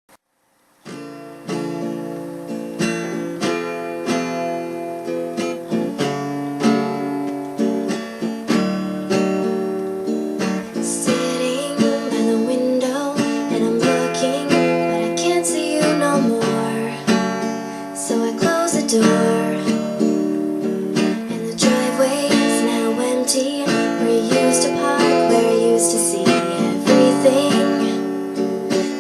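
Acoustic guitar strumming chords in a steady rhythm, starting about a second in and growing fuller about eleven seconds in.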